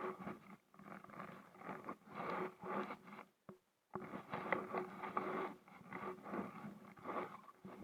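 Kayak paddle strokes: a rhythmic series of swishes and splashes as the paddle blades dip and pull through the water, about one or two a second, with a brief dropout about three and a half seconds in.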